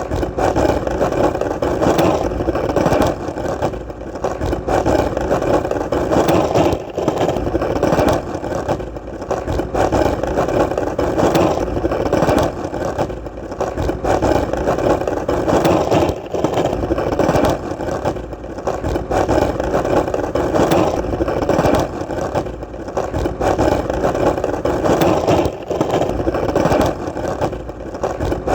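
Skateboard wheels rolling steadily on hard ground, a continuous rumbling roll that swells and eases every few seconds, with a faint click every few seconds.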